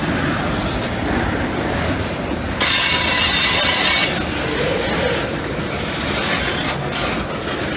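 Freight train tank cars rolling past close by, with a steady rumble and clatter of wheels on rail. About two and a half seconds in, a loud high-pitched metallic wheel squeal breaks out and cuts off suddenly after about a second and a half.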